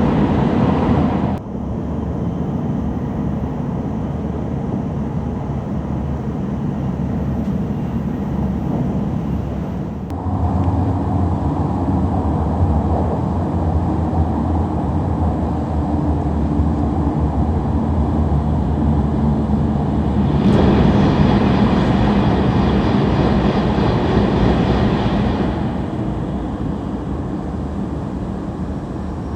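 Tohoku Shinkansen train running at a station platform: a steady, heavy rumble and rush of noise. The sound changes suddenly several times, about a second in, about ten seconds in, about twenty seconds in and again near the end.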